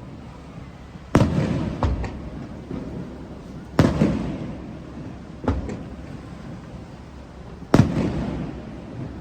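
Aerial firework shells bursting in a series of loud booms, each followed by a long rolling echo that fades away. There is a bang about a second in with a smaller crack just after it, another near four seconds, a weaker one around five and a half, and a strong one near eight seconds.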